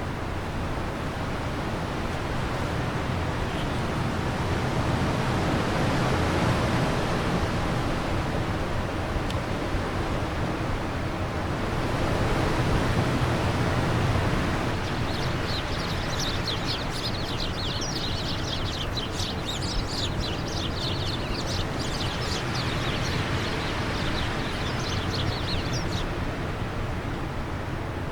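Wind blowing steadily and swelling in gusts twice. A bird sings a rapid, high twittering run from about halfway in until shortly before the end.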